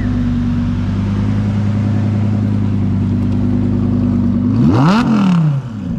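Car engine idling steadily, blipped once about four and a half seconds in: the revs rise sharply and fall straight back to idle.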